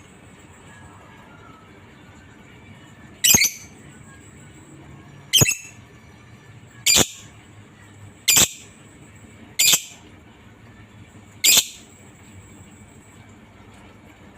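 Lovebird giving six short, shrill calls, one every one and a half to two seconds.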